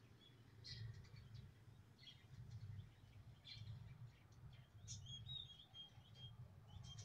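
Faint small birds chirping in short, scattered calls, with a quick run of chirps about five seconds in, over a low background hum.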